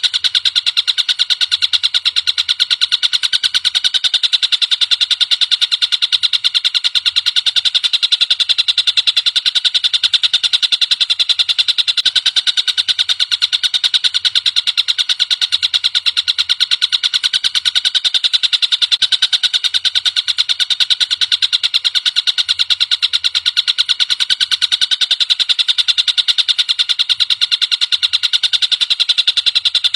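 Tengkek buto (a kingfisher) calling in a continuous, very rapid high-pitched trill that never pauses, played as a song-tutoring recording for songbirds.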